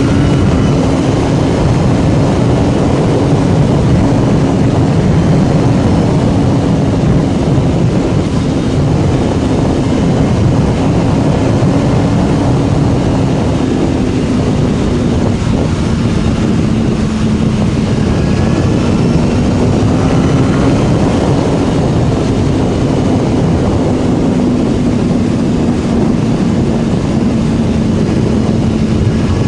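BMW S1000RR's inline-four engine running at steady cruising revs, its note drifting slightly up and down, under heavy wind noise on the microphone.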